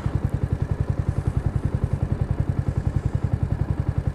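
Yamaha R125's single-cylinder four-stroke engine ticking over at low revs, a steady, even pulse of about a dozen beats a second with no change in pitch.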